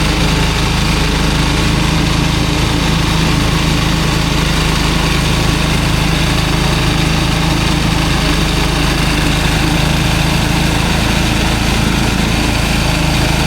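Small engine running loud and steady at a constant speed.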